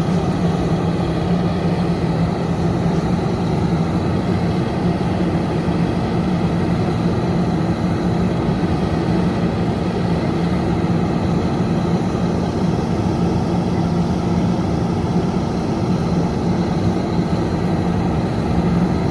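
Heavy vehicle engine, most likely a fire apparatus, running steadily with a constant low hum that holds one pitch throughout.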